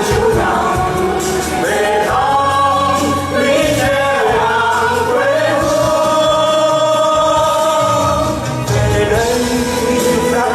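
Group of voices singing in chorus with instrumental accompaniment, holding long notes.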